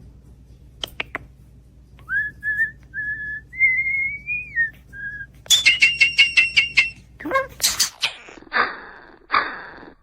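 Starling vocalising: a few sharp clicks, then a run of clear whistled notes that rise slightly in pitch, followed about halfway through by a fast clicking rattle and several harsh, raspy bursts.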